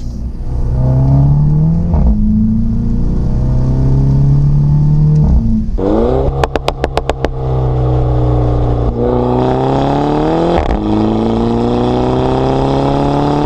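Mini Cooper S's 2-litre turbo four-cylinder through a Remus cat-back exhaust, accelerating hard with the revs climbing and dropping at quick dual-clutch upshifts. About six seconds in it lifts off and the exhaust crackles with a rapid string of pops and bangs on the overrun, then it pulls up through the gears again.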